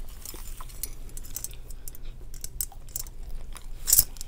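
Close-miked chewing of a mouthful of burger, with many small wet mouth clicks and crunches. About four seconds in comes one louder, sharp crackling clatter.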